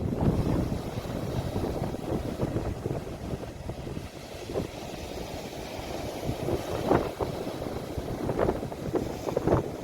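Sea waves at the shore, recorded on a phone, with wind rumbling on the microphone. The wash eases a little in the middle and picks up again in the last few seconds.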